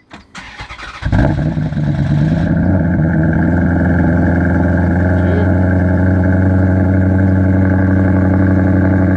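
Maserati GranTurismo S's 4.7-litre V8 being cold-started: the starter cranks for about a second, the engine catches with a brief flare of revs, then settles into a steady idle.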